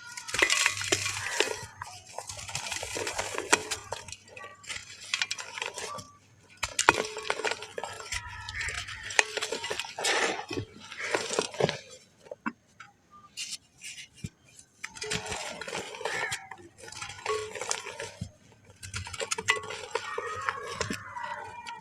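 Pressed black sand being crumbled: gritty crunching and crackling in bursts of a few seconds, with short pauses between them.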